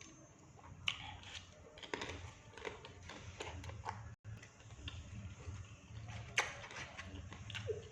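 Chewing and mouth sounds from eating batagor fried fish dumplings, with irregular sharp clicks and smacks scattered through.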